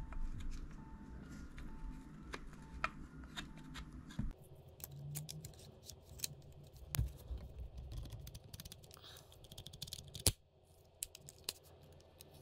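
Small clicks and scrapes of metal and plastic parts being handled and fitted together on a Tokyo Marui M870 Breacher airsoft gas shotgun during reassembly. There is a sharper click about seven seconds in and the loudest snap about ten seconds in.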